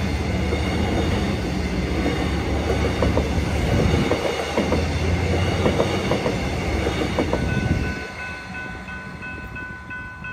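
Metro suburban electric train passing over the level crossing, its wheels clicking over the rail joints, until it clears about eight seconds in. Then the crossing's electronic bell is left ringing with a steady pulsing tone.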